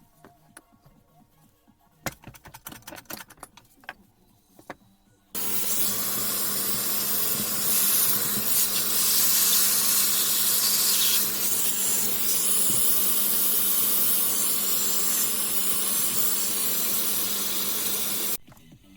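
A few light clicks of parts being handled, then about five seconds in a loud, steady hiss of a pressurised jet starts, with a low steady hum beneath it, runs for about thirteen seconds and cuts off abruptly.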